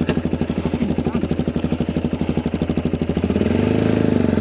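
Adventure motorcycle engine running at a steady, pulsing low idle, then revving up and getting louder about three seconds in as the bike pulls away in first gear.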